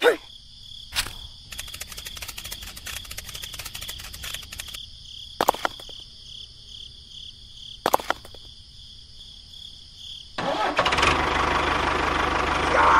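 A few sharp clicks and a stretch of fast ticking, then about ten and a half seconds in a steady motor-like running noise switches on and holds.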